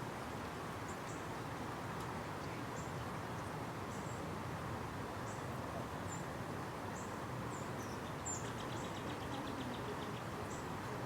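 Small birds giving short, high chirps about once a second over a steady outdoor background hum, with a quick rattling trill about nine seconds in.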